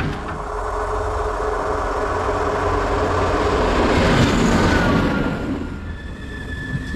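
A Croatian Railways (HŽ) diesel multiple unit passing close by: rumble and rail noise build to the loudest point about four seconds in, then fall away. Near the end, a high steady squeal sets in from the approaching train.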